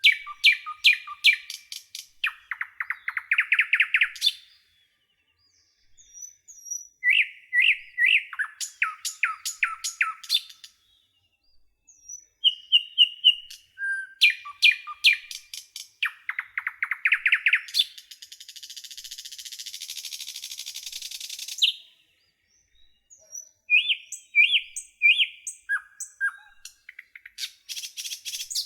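A songbird singing in repeated bouts of clear whistled notes that run into fast trills, with short pauses between phrases. In the middle comes a harsh, hissing buzz lasting about four seconds.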